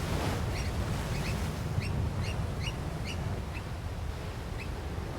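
African black oystercatchers giving a rapid series of short, sharply rising piping calls, two or three a second. This is the alarm calling of a pair guarding chicks. A low rumble runs underneath.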